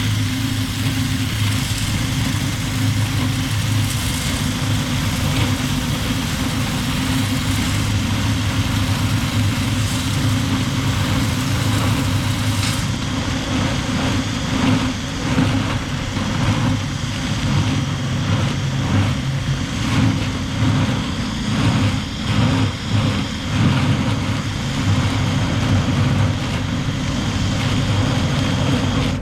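Motor-driven dryer vent cleaning brush running steadily inside the vent duct, a continuous hum with a rushing hiss, broken by uneven scraping pulses over the second half as the brush works along the duct.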